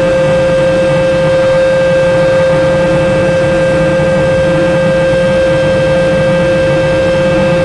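Mark VII Aqua Jet GT 700 automatic car wash running steadily: a loud, unchanging whine over a continuous rushing noise.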